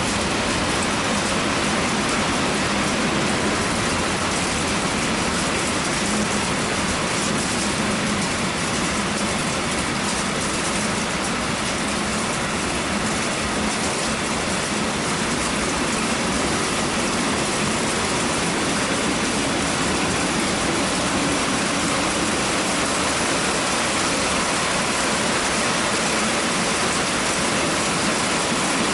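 Heavy rain falling in a steady downpour, an even hiss with no let-up.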